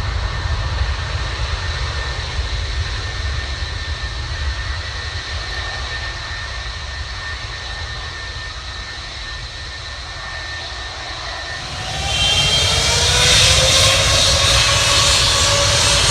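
Airliner jet engines whining steadily under a low rumble. About twelve seconds in they grow much louder, with several whines rising in pitch as the engines spool up to high thrust, as at the start of a take-off run.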